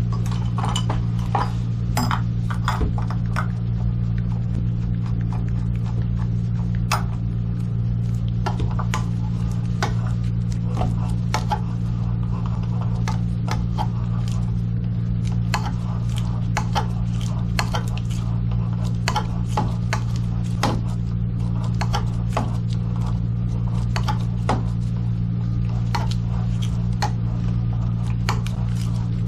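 Scattered light metallic clinks and knocks of plumbing work over a steady low hum.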